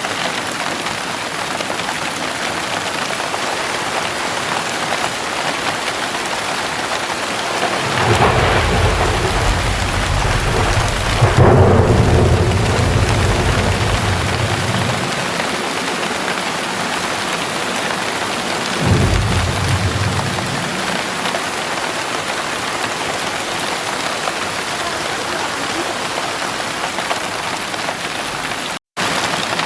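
Heavy rain pouring steadily, with a long rumble of thunder starting about eight seconds in and peaking a few seconds later, then a shorter rumble of thunder near twenty seconds.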